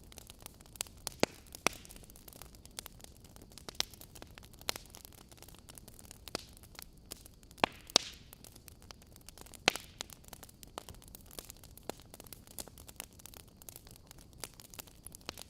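Wood fire burning in a fireplace, crackling with irregular sharp pops and snaps over a low steady hiss; the loudest pops come about a second in, around eight seconds and near ten seconds.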